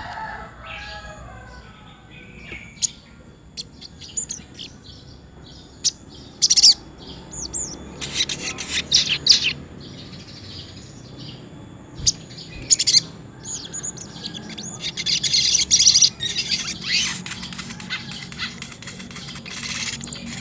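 Little spiderhunter (sogok ontong) in full song: rapid series of high, sharp chirps coming in dense runs. The loudest runs fall around the middle and toward the end.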